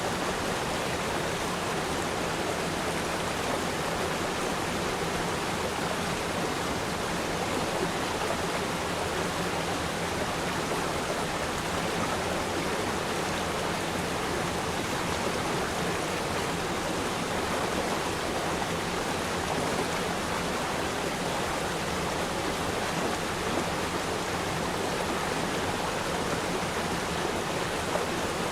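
River stream flowing steadily, an even rushing of water with no single splashes standing out.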